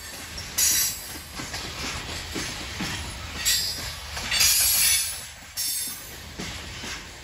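Loaded coal train's hopper cars rolling past, steel wheels knocking over the rail joints, with several short high-pitched wheel squeals.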